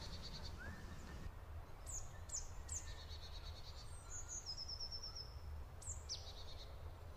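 Small forest birds calling, faint: several quick downward whistles, each followed by a short rapid trill, and a fast run of high notes near the middle, over a faint low rumble.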